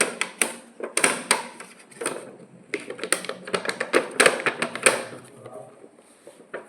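Rapid, irregular plastic clicks and clatter from a remote-control toy car being handled, thinning out about five seconds in.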